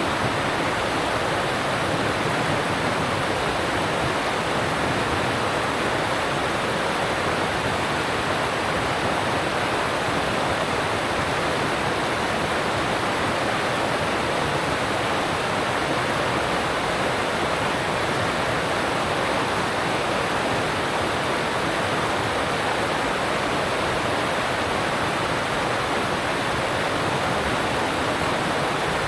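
Alpine stream rushing over rocks: a steady, unbroken wash of water noise.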